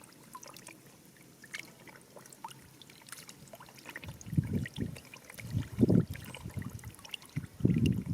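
Shallow water being disturbed: small drips and trickles, then three heavier sloshing splashes in the second half, the last near the end.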